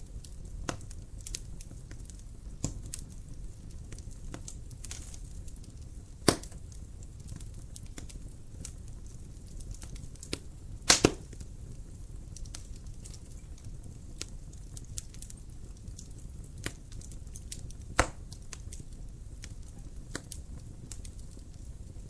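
Wood fire burning in a fireplace: a steady low rumble of flame with scattered crackles and sharp pops, the loudest a pop about six seconds in, a quick double pop near the middle, and another near the end.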